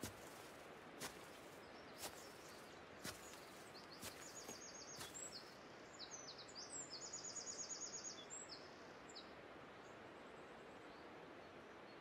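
Faint outdoor ambience with a steady hiss and a few soft ticks about a second apart. In the middle a bird sings runs of rapid, high trilled notes.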